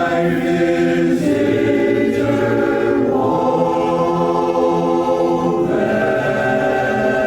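Barbershop chorus singing a tag a cappella in long sustained chords. The chord changes about a second in, again about three seconds in, and once more near six seconds.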